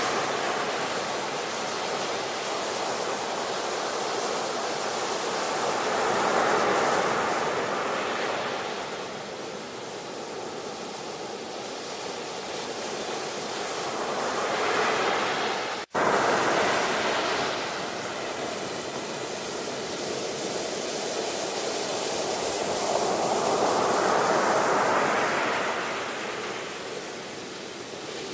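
Ocean surf: waves swelling and receding in slow surges roughly every eight to nine seconds. The sound cuts out for an instant a little past halfway, then comes straight back.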